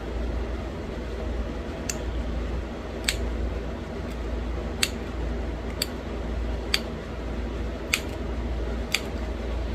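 Pressure flaking a small stone bird point: sharp, short clicks about once a second as flakes snap off the edge, over a steady low background hum.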